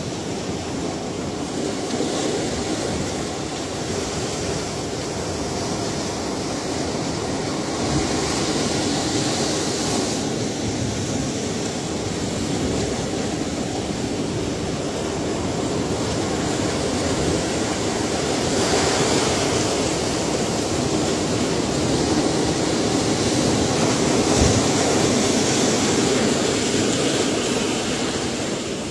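Ocean waves breaking on a shore, a continuous rush of surf that swells every several seconds as waves come in.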